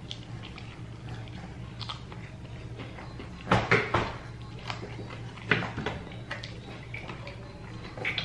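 Close-miked eating of fried chicken: chewing with wet mouth smacks and crisp crunches as the meat is torn from the bone, in short clusters about three and a half, five and a half and eight seconds in, over a low steady room hum.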